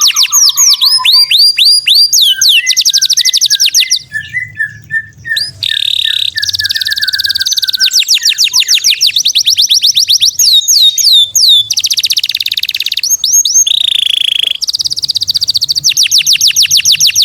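Songbirds singing fast, rapid-fire 'tembakan' phrases: long quick trills of high repeated notes and falling sweeps, with a lower run of twittering chirps beneath. There is a brief lull about four seconds in. This is a masteran song-tutoring recording that mixes species such as canary, lovebird and bulbuls.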